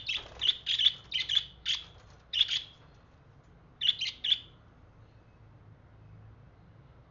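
Pet budgerigar giving short, sharp chirps: about two a second for the first three seconds, then a quick group of three about four seconds in, then falling quiet.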